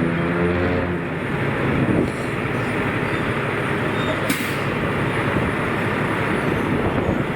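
Street traffic noise. An engine's steady hum runs for about the first second, then there is a dense wash of traffic noise, with one sharp click a little over four seconds in.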